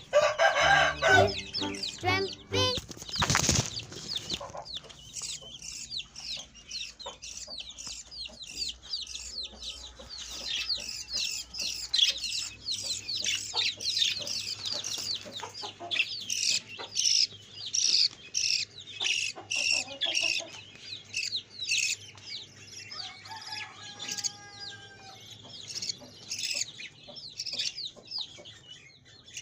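Chicks cheeping: a rapid, continuous run of high, downward-sliding peeps, several a second. There is a brief burst of wing-flapping about three and a half seconds in, and a song fades out over the first few seconds.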